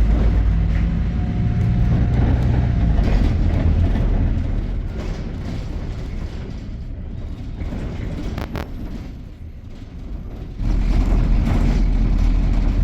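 Bus ride heard from inside: a steady low engine and road rumble that eases off for a few seconds, then jumps back louder about two seconds from the end. One sharp knock partway through.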